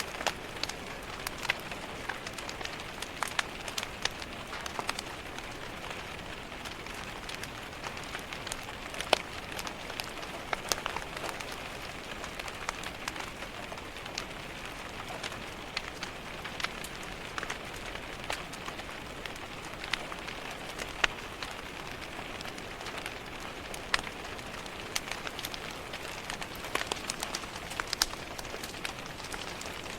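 Steady rain on a window mixed with a crackling wood fire: an even hiss of rain with frequent sharp, irregular pops and clicks from the fire.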